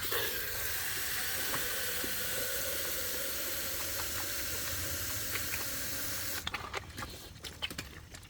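Water hissing steadily from a hose under pressure, cutting off suddenly about six seconds in; a few light clicks follow.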